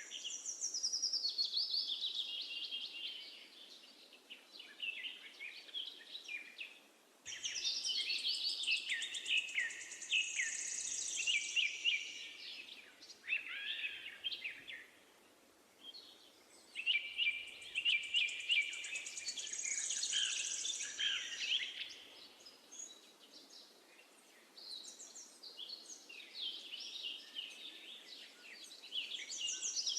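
Songbirds singing in several bursts of rapid chirps and trills, with short lulls between them, over a faint steady background hiss.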